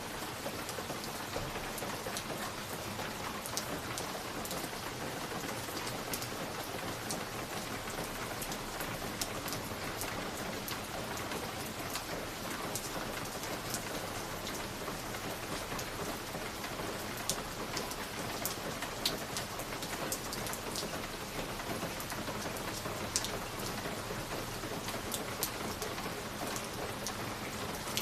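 Wood fire crackling in a fireplace: a steady soft hiss with frequent sharp pops and crackles at irregular moments.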